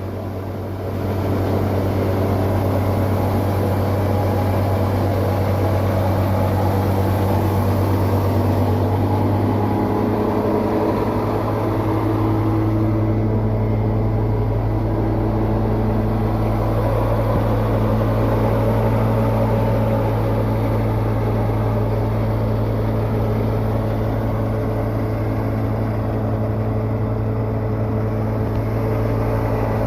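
Septic pumping truck running its engine and vacuum pump, a loud steady mechanical hum. About ten seconds in the sound shifts and a deeper hum joins.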